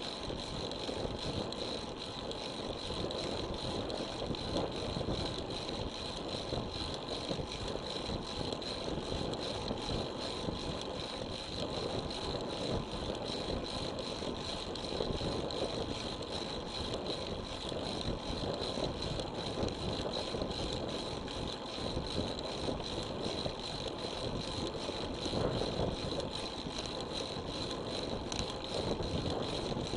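Steady rushing wind and road noise from a road bicycle being ridden, heard through an action camera's microphone.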